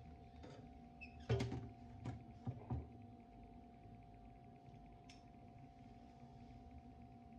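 A few quick knocks and clatters of kitchen things being handled, bunched together between about one and three seconds in, over a faint steady hum.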